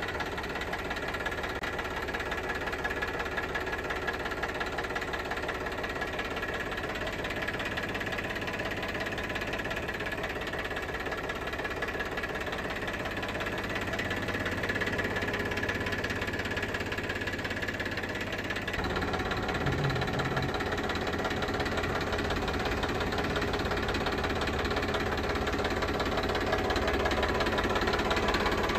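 Massey Ferguson 7250 DI tractor's 46 hp diesel engine idling steadily. From about two-thirds of the way through it gets a little fuller and louder.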